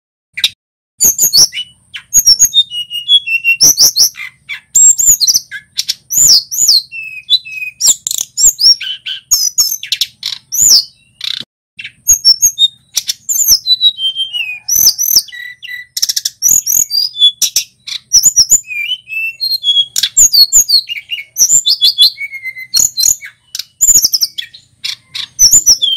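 Male tledekan gunung singing a fast, varied song of quick high chirps, sweeping whistled notes and sharp clicks, in dense phrases broken by brief pauses.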